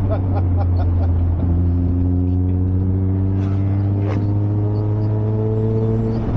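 Mazda MX-5's four-cylinder engine heard from inside the car, its note rising steadily as it accelerates from about a second and a half in, over a steady low road drone. There is a single knock about four seconds in.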